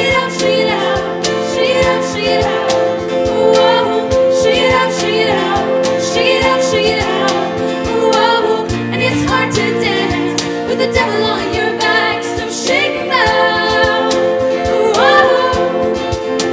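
Live show choir singing with band accompaniment: several voices in melodic lines over sustained chords and a steady percussive beat.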